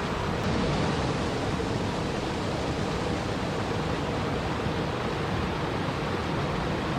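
Steady, even rushing of water, without breaks or distinct splashes.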